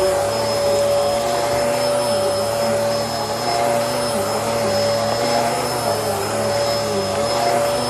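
Bissell Helix vacuum cleaner running steadily, its motor holding a constant whine over a steady rush of air, with a slight waver in the lower hum.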